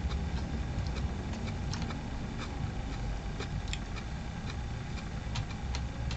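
Chewing with small scattered mouth clicks while eating a sandwich, over a steady low hum.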